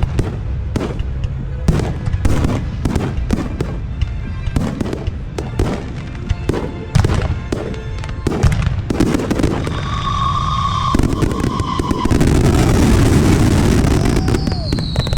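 Fireworks display: a rapid string of sharp bangs for the first several seconds, a brief steady whistle about ten seconds in, then a dense, loud crackling barrage from about twelve seconds, with a falling whistle near the end.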